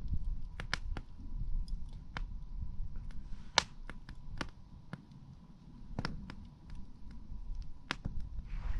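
Wood campfire crackling, with irregular sharp pops, the loudest about three and a half seconds in, over a low rumble.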